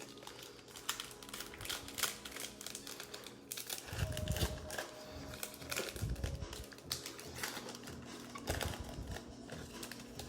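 Crinkling and crackling of trading-card pack wrappers being torn open and handled, with many small clicks and a few soft thumps.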